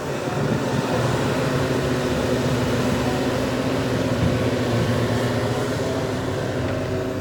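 Heavy diesel earthmoving machinery, an excavator and dump trucks, running steadily with a low, even engine hum.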